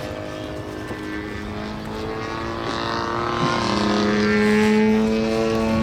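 Radio-controlled model aircraft buzzing steadily overhead. About three and a half seconds in, its pitch drops a little and it grows louder.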